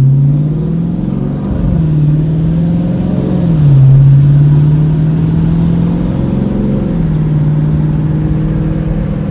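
2019 Dodge Challenger R/T's 5.7 Hemi V8 running through a Borla ATAK cat-back exhaust while driving, a steady low engine note whose pitch climbs and then drops twice, about three and a half and seven seconds in.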